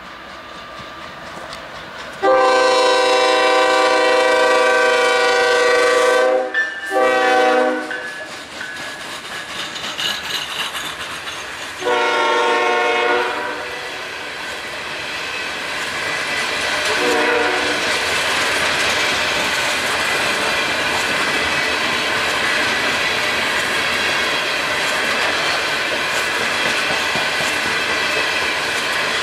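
BNSF GE diesel locomotive passing close by and sounding its multi-chime air horn: one long blast about two seconds in, shorter blasts around seven and twelve seconds, and a faint last one near seventeen seconds. Then the freight cars roll past with steady wheel-on-rail clatter.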